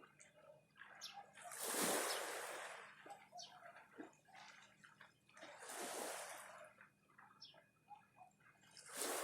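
Small waves of the Sea of Okhotsk washing onto the shore, three washes a few seconds apart, with water trickling and dripping back between them.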